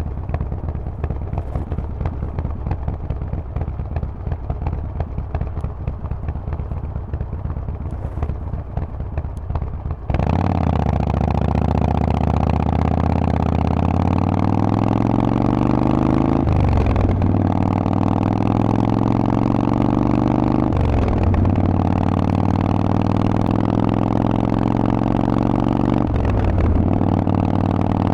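Harley-Davidson Forty-Eight's 1200 cc air-cooled V-twin through a Vance & Hines exhaust, running low and rough at first. About ten seconds in the throttle opens and it pulls hard, the exhaust note climbing, with three brief dips in pitch as it shifts up through the gears.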